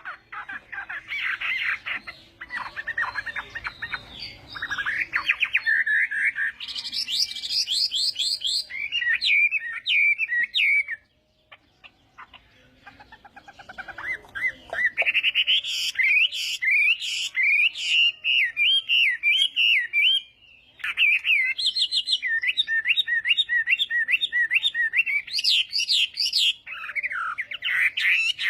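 Chinese hwamei (melodious laughingthrush) in competitive song: loud, rapid, varied whistled phrases. The song breaks off for about two seconds partway through, then runs on continuously.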